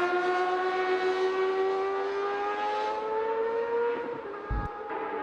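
Racing motorcycle engine at high revs, its pitch climbing steadily for about four seconds before the revs drop away. A brief low thud follows shortly after.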